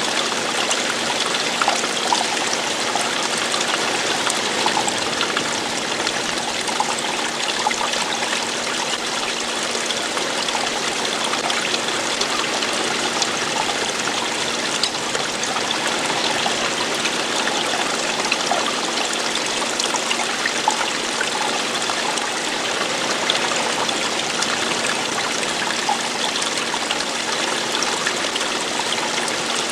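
Running water flowing and falling steadily, with small trickles and splashes through it.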